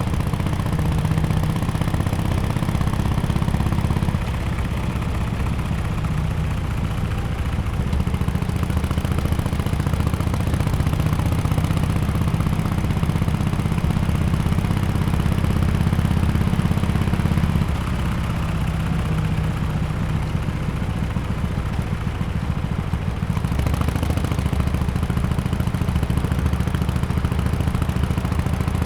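2017 Harley-Davidson XL1200X Forty-Eight's air-cooled V-twin running through an aftermarket muffler, a continuous low exhaust note. Its level steps down about four seconds in and shifts again past the middle and later on.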